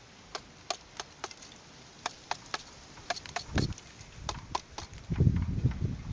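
A series of sharp clicks and knocks of hard pieces being handled, a few each second, with dull thumps in the second half.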